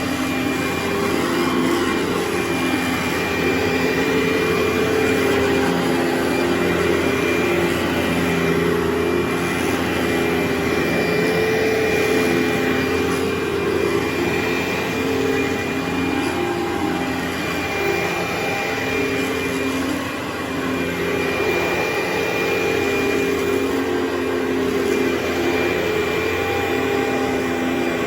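Carpet-cleaning machine running steadily: a continuous motor drone with a thin, steady high whine over it.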